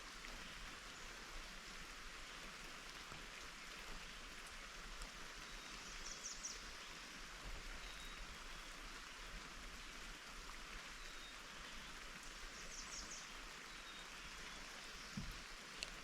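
Steady rain falling, a constant soft hiss. A short high trill comes twice, and two sharp taps sound near the end.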